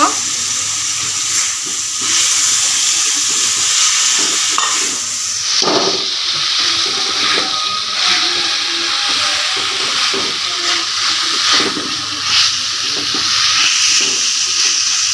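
Taro stolons and potato pieces sizzling as they fry in hot oil and spice paste in a wok, stirred with a wooden spatula. Scattered scrapes and knocks of the spatula against the pan sound over a steady hiss.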